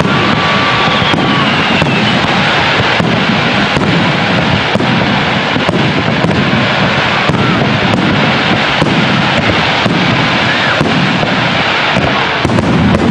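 Fireworks display: a dense, continuous barrage of bursting shells and crackle, with many sharp reports one after another and a few brief whistling glides.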